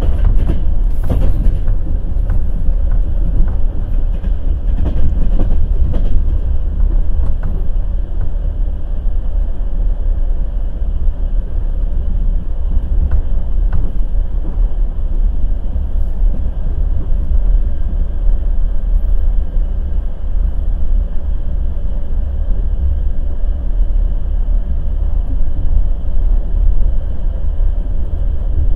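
Passenger train wheels knocking over rail joints, over a steady low rumble of the moving coaches. The knocks are sharp and frequent in the first several seconds, then give way to a more even rumble.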